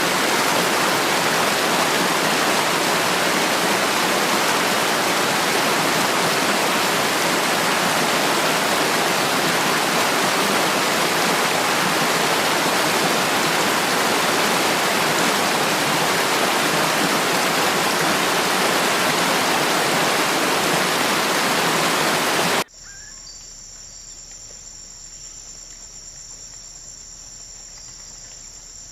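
Loud, steady rush of water, like a waterfall or fast stream. About 23 seconds in it cuts off abruptly to a much quieter, steady high-pitched insect chorus.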